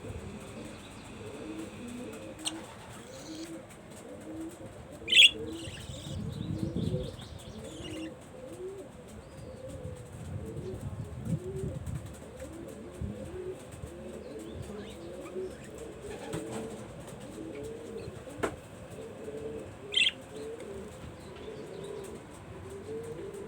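Pigeons cooing continuously, with many overlapping calls. Two short, sharp bird chirps cut through, about five seconds in and again near the end, and a burst of wing flapping follows the first chirp.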